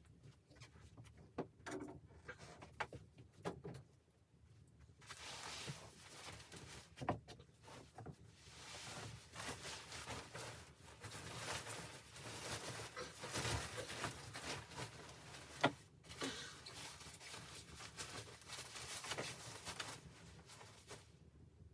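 Irregular scraping and rustling handling noises with many small clicks and knocks, one sharper knock about two-thirds of the way through.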